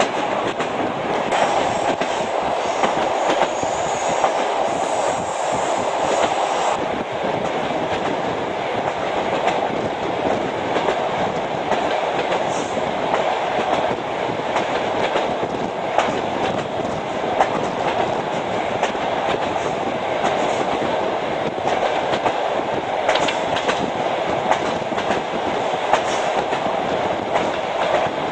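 Passenger train running along the track, heard from on board: a steady rumble of wheels on rail with frequent sharp clicks as the wheels pass over rail joints.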